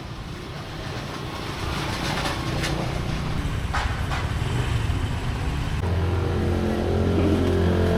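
A motor vehicle engine running close by, growing louder, with a steady engine hum coming in strongly about six seconds in.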